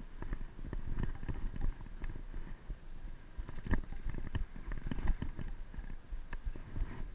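Wind buffeting the microphone of a moving bicycle, an irregular low rumble, with frequent small clicks and rattles from the bike.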